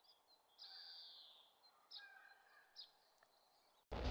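Faint birdsong: a few short chirps and one longer falling note about a second in. A louder sound starts right at the end.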